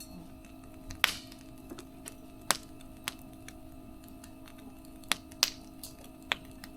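Burning firewood crackling: about six sharp pops and cracks at irregular intervals, the loudest about a second in, over a steady low hum.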